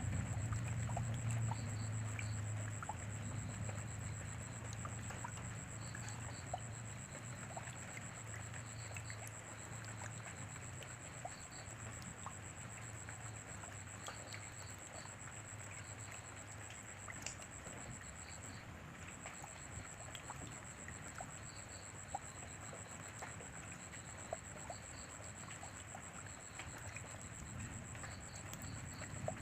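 Rain falling steadily: an even hiss of rainfall with many scattered individual drop hits. A steady high-pitched tone and short high chirps in small repeated groups sound behind it, and a low rumble fades away over the first few seconds.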